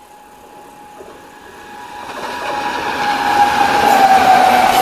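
A train approaching and growing steadily louder as it nears. A steady high tone runs through it and sinks a little in pitch as the train draws close.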